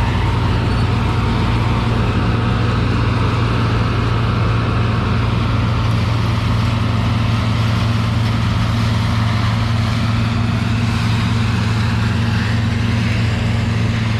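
Combine harvester running steadily while harvesting soybeans, its engine and threshing machinery making a constant low hum over an even mechanical rush.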